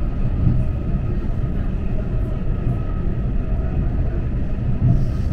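Passenger train in motion: a steady low rumble of the running train and its wheels on the track.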